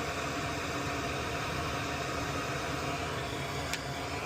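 Steady fan-like noise, an even hiss with a low hum, with one faint click near the end.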